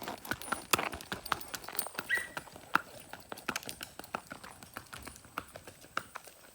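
Hoofbeats of a gaited mare being ridden at a rack: a quick, continuous run of sharp clip-clops.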